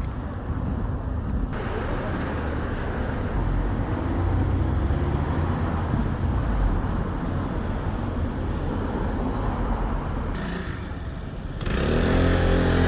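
Road traffic: motor vehicles passing by with a steady rush of engines and tyres. About a second and a half in, the sound changes abruptly, and a louder engine with a clear hum comes in near the end.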